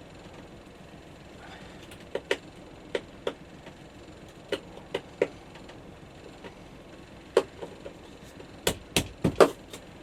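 Irregular sharp knocks and clicks of hand tools at work on the painted-over screws of a small catch, in small groups, with the loudest and heaviest knocks near the end.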